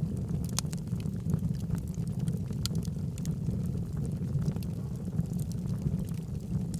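Wood fire burning logs in a fireplace: a steady low rumble of the flames with sharp, scattered crackles and pops from the wood, a handful of them in a few seconds.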